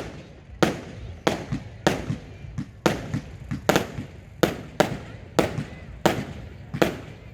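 Fireworks going off in quick succession, a sharp bang with a short echoing tail about every two-thirds of a second.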